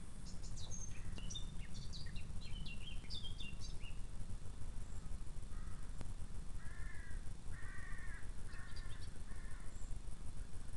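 Wild birds: a songbird sings a quick run of high, varied notes, then a lower, harsh call repeats about five times, under a steady low rumble.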